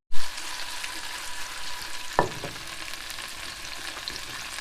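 Garlic sizzling in olive oil in a frying pan, a steady crackling hiss, with a single utensil knock against the pan about two seconds in.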